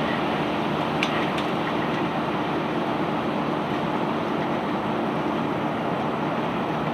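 Heavy machinery engine running steadily with an even drone, with two light knocks a little after a second in.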